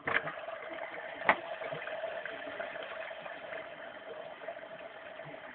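Washing machine running a prewash: a steady watery churning with a constant hum. There is a sharp click just after the start and another about a second in.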